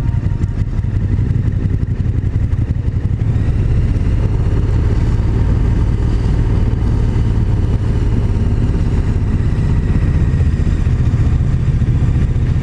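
KTM 1290 Super Duke GT's V-twin engine running steadily on the move, with a slight rise in revs a few seconds in.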